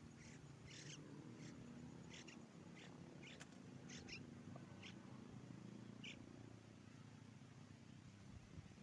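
Faint, short high-pitched bird chirps, repeated a dozen or so times during the first six seconds, over a low steady background hum.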